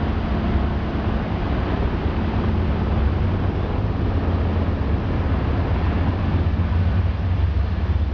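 Steady low rumble and rushing noise of a moving Amtrak passenger train, heard on board as it rolls through the rail yard, with wind on the microphone.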